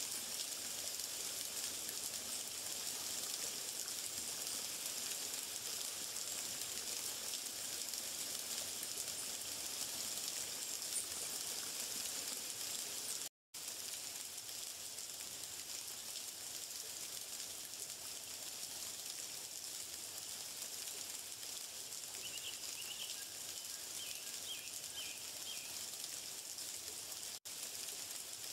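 Steady hiss of water, like rain or a flowing stream, with faint short high chirps late on. The hiss breaks off for a split second about halfway through.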